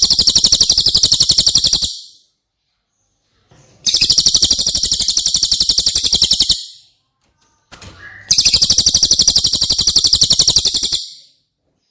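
Cililin songbird giving a very fast, even, high-pitched trill in three bursts of about three seconds each, with short silent gaps between them.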